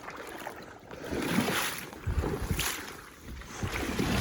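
Water sloshing and splashing in three surges about a second apart, with wind buffeting the microphone.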